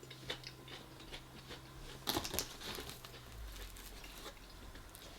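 Faint handling of takeaway food packaging: soft crinkling and small clicks, with a louder crackle about two seconds in.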